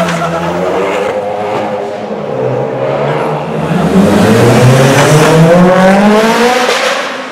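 Mitsubishi Lancer Evolution's turbocharged four-cylinder accelerating hard in a concrete tunnel. Its engine note rises steadily in pitch and is loudest as it passes close, then fades near the end. Another car's engine is heard at the start.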